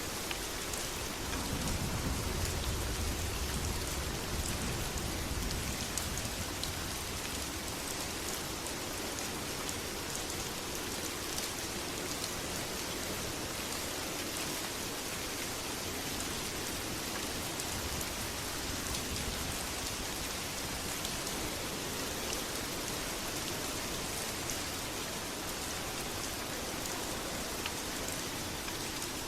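Steady heavy rain, with a low rumble of thunder from about one to six seconds in.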